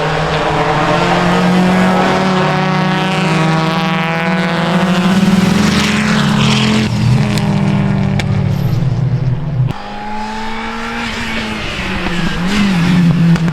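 Rally car engine running hard with its pitch stepping up and down. About ten seconds in the sound drops suddenly, and near the end an engine revs up again.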